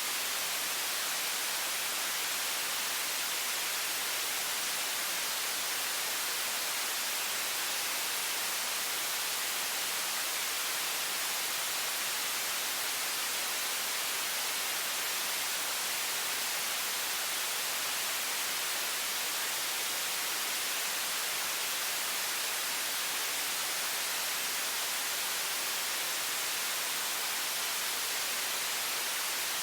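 High-pressure water faucet stream running in a steady, even hiss that leans to the high end, without any change.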